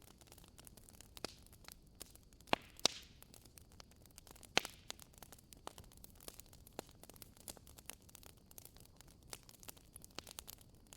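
Wood fire crackling in a fireplace: a dense scatter of small, irregular crackles over a faint hiss, with a few sharper pops in the first half.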